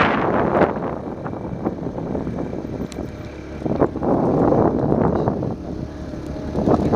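Vehicle engine running on a rough uphill road, with wind buffeting the microphone in uneven surges.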